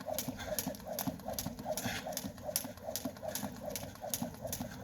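Jump rope and feet slapping the wet ground in a steady rhythm, about three sharp slaps a second, during a skipping workout.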